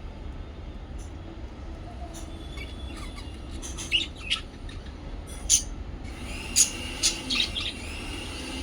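Small pet parrots chirping: short, sharp, high calls, a few at first and coming more often and louder from about halfway through, over a steady low hum.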